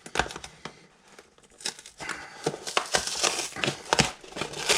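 Cardboard and paper packaging being pulled, torn and crinkled by hand, a burst of irregular crackles and sharp snaps after a quieter first second or so. The packing is glued and tough to open.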